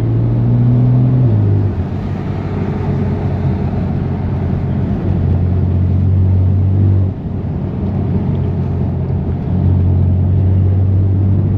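BMW F80 M3 Competition's twin-turbo straight-six, with catless downpipes and an always-open valved exhaust, droning steadily at low cruising speed over a haze of road noise. The drone fades and comes back twice as the throttle is eased off and reapplied.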